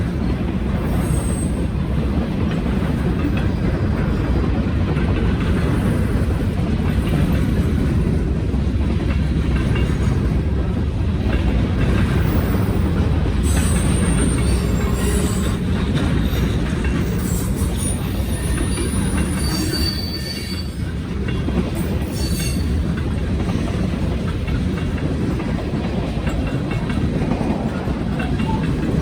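Norfolk Southern freight train's railcars rolling past in a steady rumble, wheels clicking over the rail joints, with brief high wheel squeals about halfway through.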